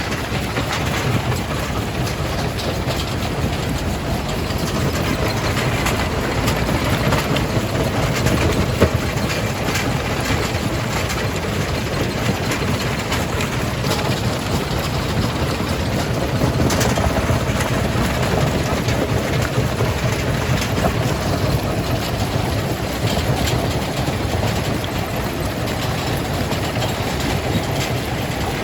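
Jaw crusher running while crushing rock: a steady heavy machine rumble with scattered knocks and cracks of stone breaking, one louder crack about nine seconds in.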